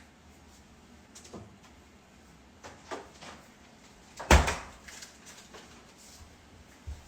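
Handling noises: a few light clicks and knocks, then one louder thump about four seconds in, like a cupboard or container being opened or set down.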